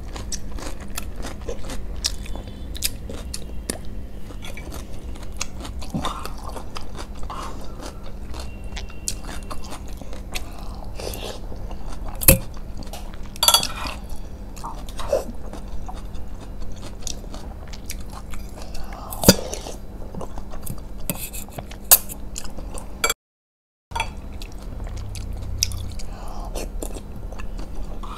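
Close-miked mukbang eating sounds: chewing and biting chicken lollipop and masala Maggi noodles, full of wet mouth noises and small crunches, with a few sharp clicks. The sound drops out completely for about half a second near the end.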